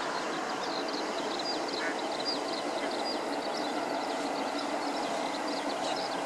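Eastern spot-billed duck ducklings peeping continually: many short, high, falling peeps, several a second, over a steady rushing background noise.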